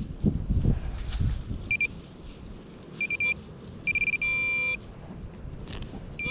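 Metal-detecting pinpointer beeping in short bursts as it is worked over a shallow coin in the hole, then holding one steady tone for about half a second when right on the target. Before that there are a few low dull thuds from digging in the turf.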